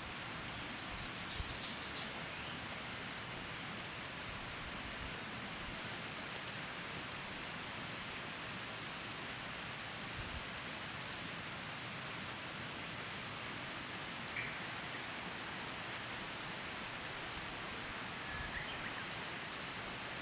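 Steady outdoor ambient noise, a soft even hiss, with a few faint short chirps: a small cluster about a second in and single ones later on.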